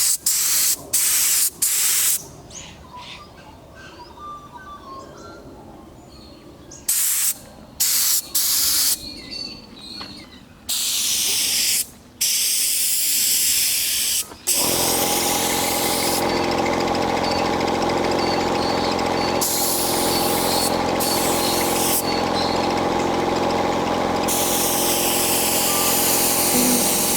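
Compressed-air paint spray gun hissing in a series of short bursts as the trigger is pulled and released, then a longer spray pass. About halfway through a steady hum starts and runs on under further bursts of spray.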